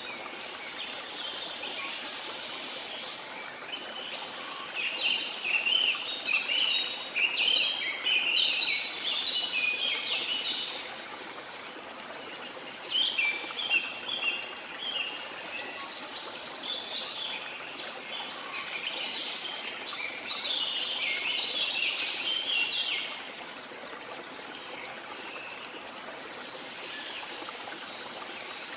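A waterfall rushing steadily, with birds singing over it in two long runs of quick, high chirps.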